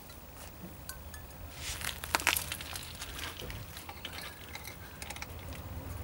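Light metallic clicks and scrapes of a circlip being worked into the inner groove of a car's hub carrier. A denser run of clicks comes about two seconds in, with one ringing click the loudest.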